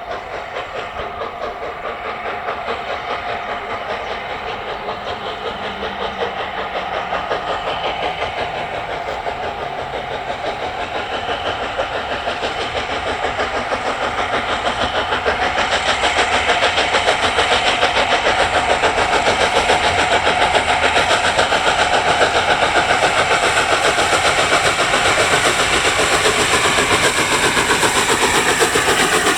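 Steam locomotive working, its exhaust beating in a quick, even rhythm, growing louder over the first half and then holding steady.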